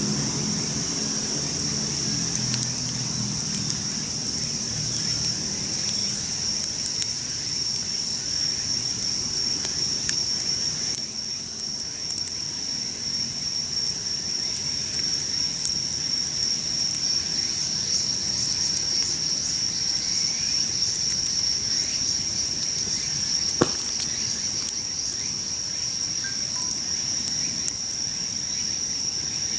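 Insects chirring in one steady high-pitched note, with scattered small crackles from a wood campfire. A low hum fades out over the first few seconds, and there is one sharp click about 23 seconds in.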